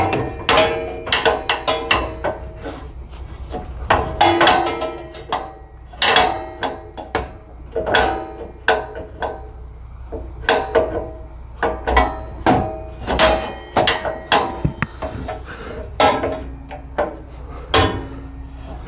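Steel brush guard clanking and ringing as it is slid and knocked into place on a lawn tractor's front frame: a long run of irregular metal knocks, some leaving a short ringing tone.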